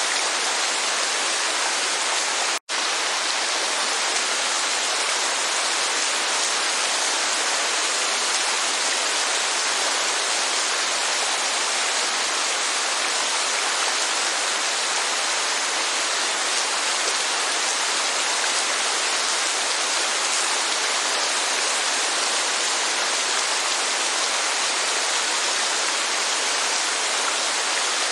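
Steady rush of rain and falling water: an even hiss, bright and with little low end. It drops out for an instant about two and a half seconds in.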